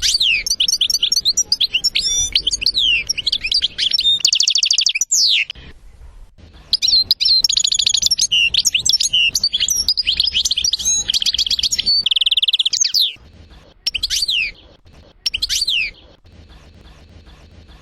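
European goldfinch singing: long phrases of fast twittering notes, down-sweeping whistles and buzzy rapid trills, broken by a gap of about a second some six seconds in. Near the end the song gives way to two short separate calls.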